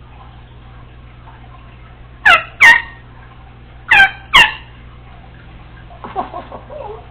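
Congo African grey parrot giving four loud, sharp calls in two quick pairs, each falling in pitch, followed by softer mumbled chatter near the end.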